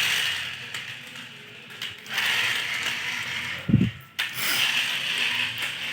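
A toy car's gear mechanism whirring and ratcheting in three stretches, with a short thump about two-thirds of the way through.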